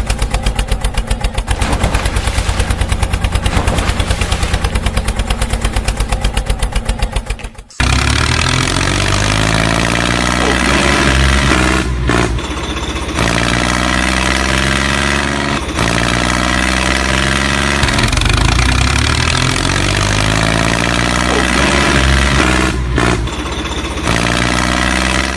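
Tractor engine running, first as a rapid, even chugging, then abruptly changing about eight seconds in to a steady running sound whose pitch rises and falls again and again, as if revving under load.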